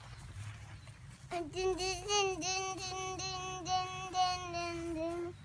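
A young child imitating a train whistle with his voice: one long, steady hooting tone starting about a second in, with a few brief dips in pitch, stopping just before the end.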